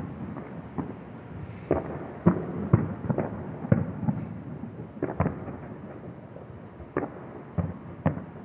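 Fireworks going off: a string of about a dozen irregular bangs and pops. The loudest come around two to three seconds in and again about five seconds in.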